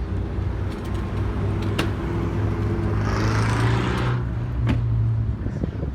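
Car engine running steadily at low speed, a low even hum, with a brief rush of noise about three seconds in.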